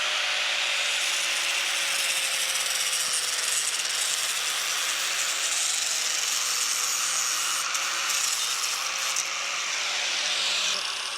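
Electric power saw running and cutting continuously with a steady whine, then released and winding down near the end.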